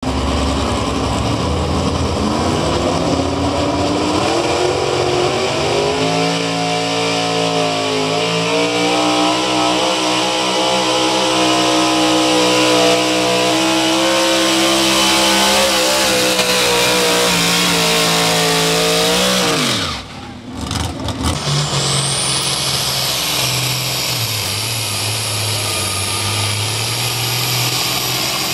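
Pull vehicle's engine at a sled pull, revving up over the first several seconds and then holding a loud, steady full-throttle run; it cuts out abruptly about twenty seconds in. Afterwards an engine runs at a lower note, with a thin high whine rising over it.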